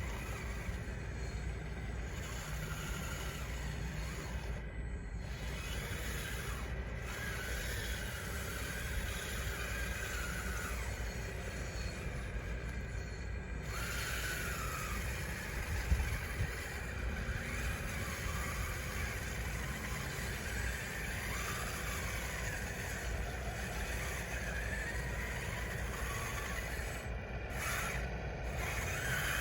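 Electric drive motors and gearboxes of a radio-controlled bulldozer whining, the pitch wandering up and down with the load, over a steady low noise. A single knock comes about sixteen seconds in.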